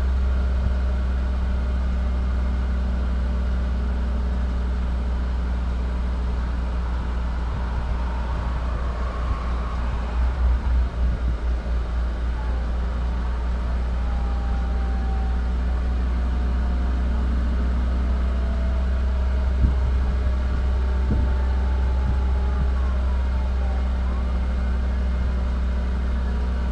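Vehicle engine idling with a steady low rumble, heard from inside the parked vehicle's cab; about ten seconds in the rumble pulses unevenly for a couple of seconds. Faint sliding tones rise and fall in the background, and there is one short knock about two-thirds of the way through.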